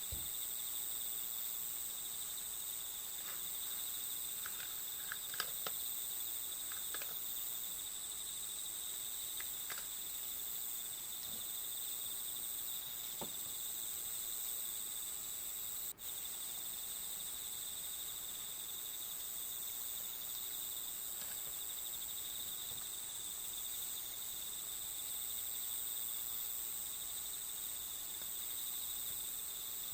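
Steady chorus of crickets trilling on one high pitch, with a few faint light clicks a few seconds in and a momentary break about halfway through.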